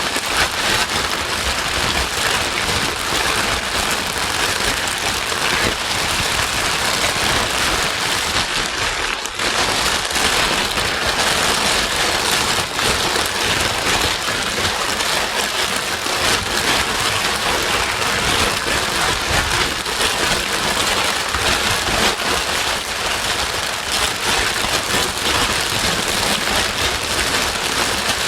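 Steady white noise with a rain-like patter, a dense even hiss from deep rumble to high fizz, played as a soothing sleep sound for a crying baby. It dips briefly about nine seconds in.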